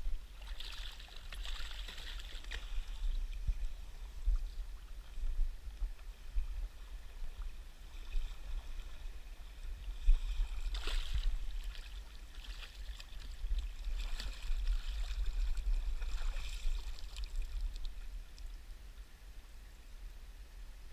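Flowing river water below a dam, with a steady low rumble under it and hiss that swells louder a few times.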